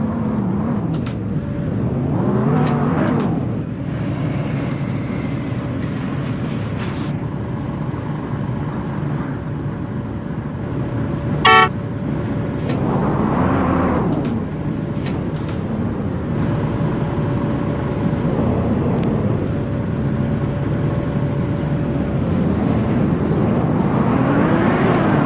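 Scania K230UB bus's five-cylinder diesel engine pulling the bus along, its pitch rising and falling a few times as it accelerates and eases off, over steady road and cabin noise. A short loud toot about eleven and a half seconds in.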